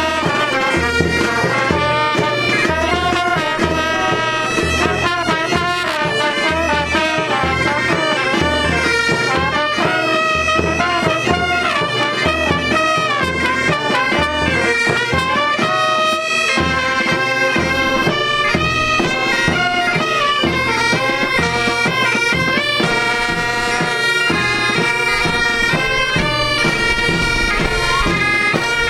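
Bagpipe band playing: the pipes carry a continuous tune over a steady drumbeat.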